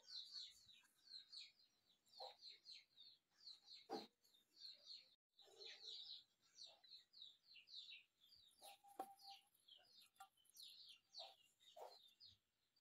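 Faint, quick, high bird chirps repeating a few times a second, with a couple of soft knocks.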